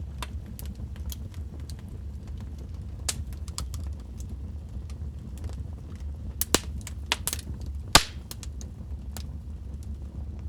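Wood fire burning in a fireplace with a steady low rumble and scattered crackles, and a run of louder pops and snaps around six to eight seconds in, the loudest just before the eighth second.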